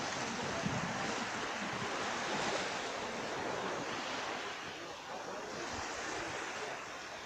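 Small sea waves washing onto the beach, a steady wash of surf that swells and eases gently.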